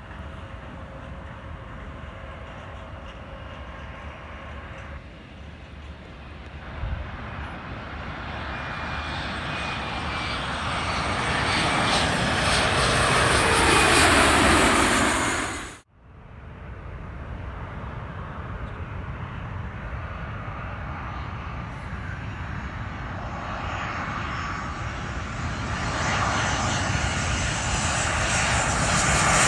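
Airliner engines passing low overhead, swelling to their loudest about halfway through with a falling whine as the plane goes by, then cut off abruptly. A second airliner's engine noise then builds steadily toward the end.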